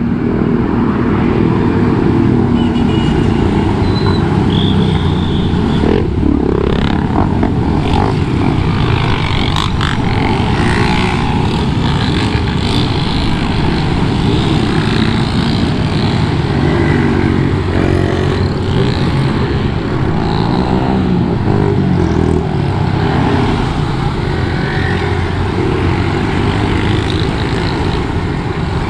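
Motorcycle engine running under way, its pitch rising and falling with the throttle, over steady wind and road noise on a helmet- or bike-mounted camera.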